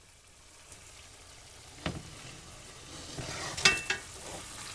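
Food frying in a pan, a faint sizzle that grows louder, with a utensil knocking against the pan twice, the second time with a short metallic ring.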